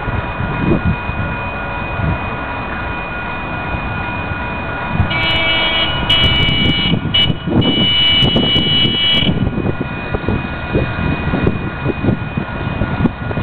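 Sprinter diesel multiple unit train sounding its horn in the grade-crossing pattern of long, long, short, long over the low rumble of the passing train. A steady high tone runs underneath throughout.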